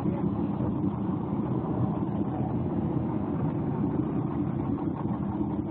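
Steady low rumble of a boat's outboard motor running, with no break or change in pitch.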